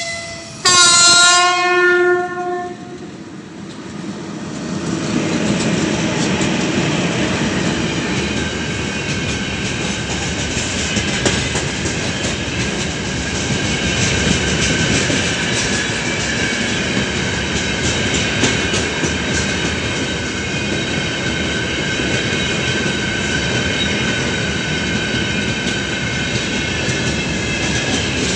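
A 3ES5K Ermak electric locomotive sounds one horn blast of about two seconds as a greeting. It is followed by the steady rumble of its freight train's open wagons rolling past at close range, with the clickety-clack of wheels over the rail joints.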